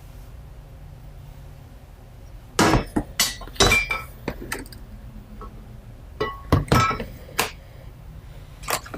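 Loose metal parts of a garage door opener kit, such as its mounting brackets, clinking and clanking together as they are handled: a string of sharp knocks with short metallic ringing, starting about two and a half seconds in.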